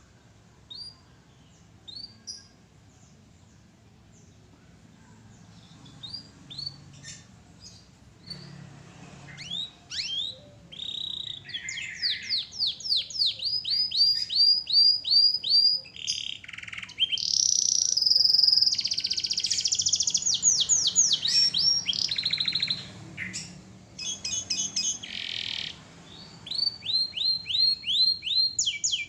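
Domestic canary singing. It gives a few scattered chirps at first, then about ten seconds in it builds into a long, loud song of fast repeated notes and trills.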